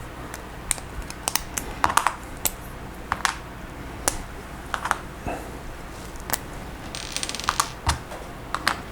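Hard plastic clicks and taps of Lego Technic pieces being pulled apart and set down, coming irregularly, with a brief quick rattle about seven seconds in.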